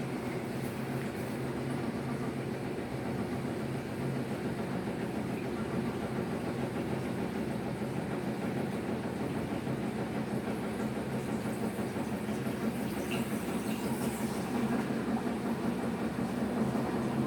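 Electrolux LF75 top-load washing machine running with a steady hum and a noisy whir, slowly getting a little louder. The owner suspects the noise comes from the mechanical seal.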